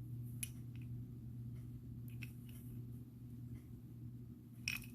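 Faint, scattered clicks of glass and gemstone beads knocking together as a beaded bracelet is handled, the clearest near the end, over a low steady hum.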